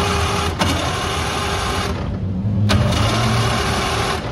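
Bugatti Type 35's straight-eight engine running, loud in two spells: the first cuts off about two seconds in, and after a short lull the second starts near the three-second mark.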